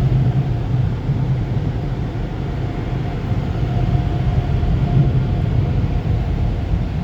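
Automatic tunnel car wash machinery, probably the drying blowers, running steadily, heard from inside the car as a loud, even rumble with a faint steady hum above it.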